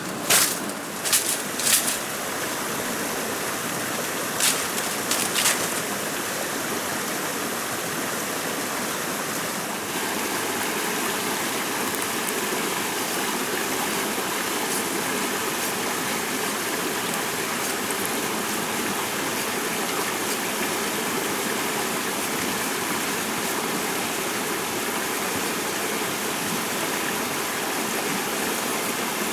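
Steady rush of flowing water, like a stream. There are a few sharp knocks in the first seconds and two more around five seconds in.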